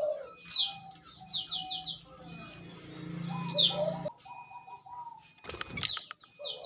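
Sooty-headed bulbul (kutilang) calls from a bird-trapping lure recording: bubbly lower notes mixed with quick falling high whistles, repeated in short phrases, with a couple of sharp clicks about five and a half seconds in.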